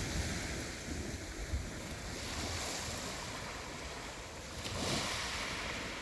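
Sea waves washing against a rocky shore, with a surge swelling up about five seconds in, and wind buffeting the microphone.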